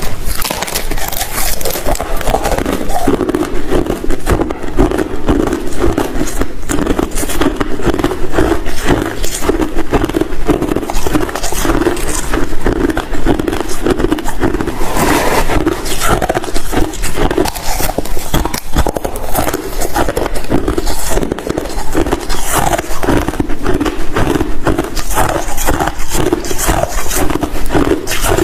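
Ice being chewed: dense, continuous crunching and cracking with no pause.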